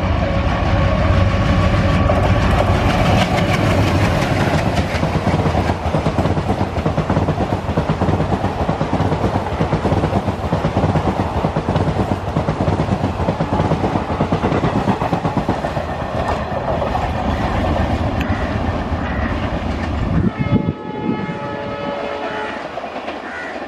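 ALCO WDG-3A diesel locomotive and its coaches running through at speed, with a loud low engine drone and the clatter of wheels over the rails. About twenty seconds in, the drone and the low rumble fall away, and a chord of steady tones sounds near the end.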